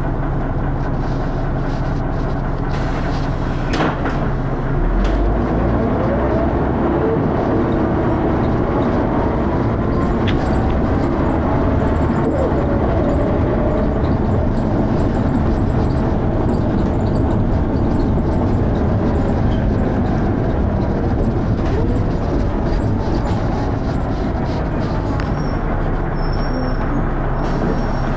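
Dennis Arrow double-decker bus heard from on board, its diesel engine and transmission running loudly with the engine note rising and falling as it pulls away and changes speed, with a harsh thrash. A sharp click comes about four seconds in.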